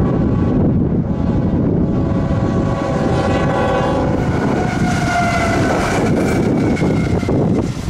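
CSX freight locomotives rumbling past close by, with the horn sounding from about two seconds in; its tones change as the locomotives go by. Heavy wind buffets the microphone.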